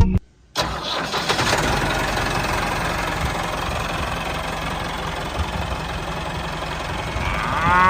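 Tractor engine starting about half a second in and then running steadily. A cow starts mooing near the end.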